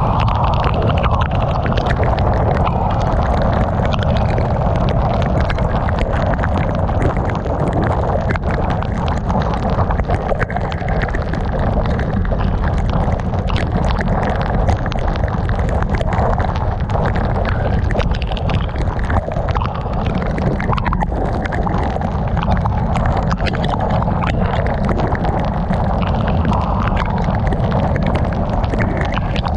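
Heavy rain hitting a moving car: a dense patter of drops over a steady low rumble of tyres and wind.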